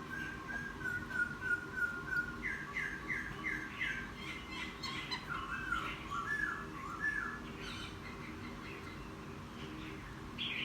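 Wild-caught laughingthrush singing. It gives a run of short repeated whistles, then about five down-slurred notes, then a couple of seconds of jumbled warbling. The song trails off in the second half, with one sharp call near the end.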